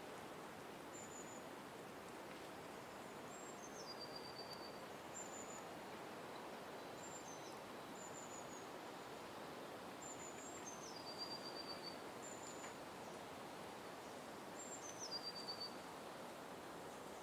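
Songbird giving short, high, thin whistled notes, several of them stepping down in pitch, repeated every second or two over a steady faint background hiss of outdoor noise.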